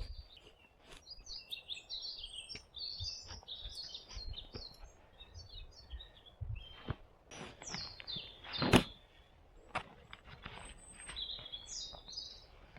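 Small birds chirping in short, repeated calls, with scattered light knocks and one sharp, loud knock about two-thirds of the way through.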